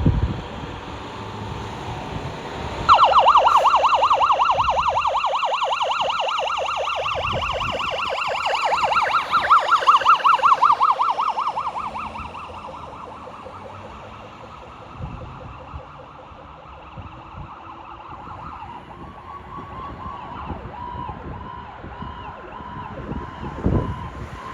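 Fire apparatus electronic siren on a fast yelp, starting suddenly about three seconds in, growing louder and then fading as it passes and moves away. A steadier, fainter siren tone follows near the end.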